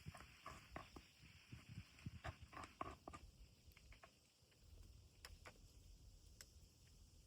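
Near silence with faint small clicks and taps through the first three seconds, then a few isolated sharp ticks.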